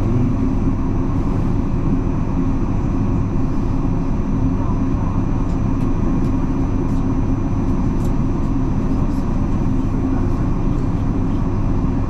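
Inside a moving electric commuter train: the steady rumble of wheels on the track and the running hum of the carriage, with a few faint light clicks in the second half.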